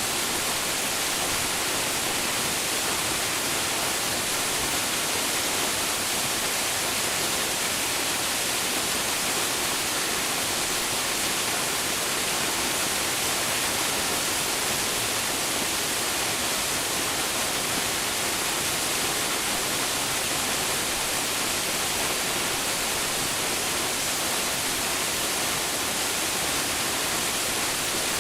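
Waterfall: water falling and splashing into a pool, a steady unbroken rush.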